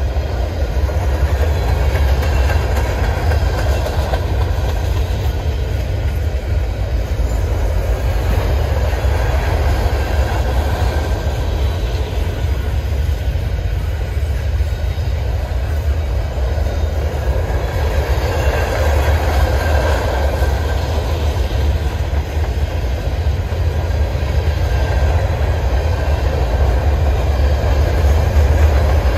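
Freight train rolling past, a steady low rumble of the cars running on the rails.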